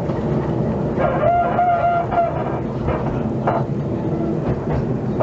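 Welsh Highland Railway narrow-gauge train running with a steady rumble. About a second in, a single high held tone sounds for just over a second.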